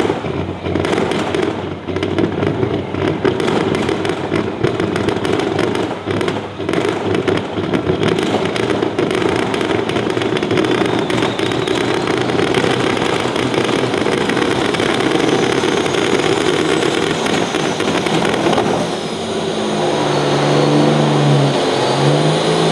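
Pro stock pulling semi's diesel engine running hard, its exhaust crackling sharply over the first several seconds. It then runs as a steady dense noise, and near the end settles into a lower, plainly pitched engine note.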